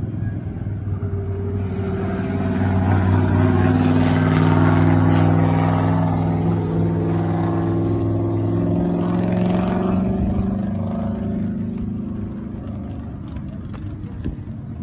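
A drift car's engine held at high revs through a long slide. It grows louder over the first few seconds and fades away after about ten seconds.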